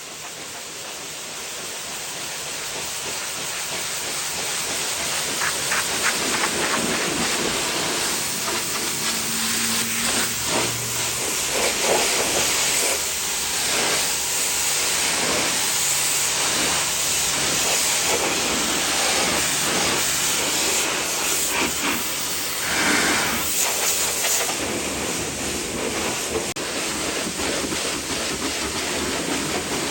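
High-pressure water spray hissing steadily against the truck, swelling over the first few seconds and then holding.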